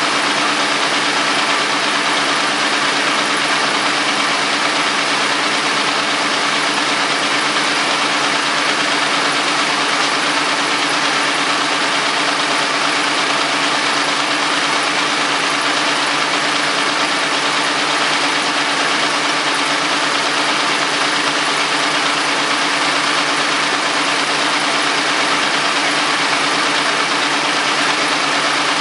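Vintage Caterpillar D13000 diesel engine running steadily at an even speed, with no change in pitch or load.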